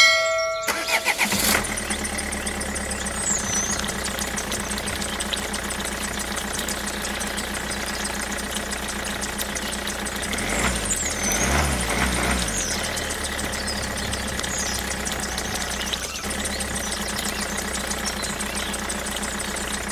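A short beep-like tone, then a small engine starts about a second in and runs steadily, swelling briefly about halfway through, before cutting off abruptly near the end. Birds chirp faintly over it.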